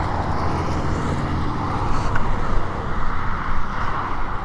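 Car driving along: steady engine hum and road noise.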